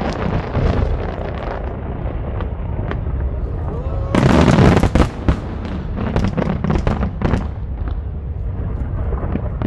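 Aerial fireworks bursting in an irregular series of sharp bangs and crackles. A dense, loud flurry of bursts comes about four seconds in.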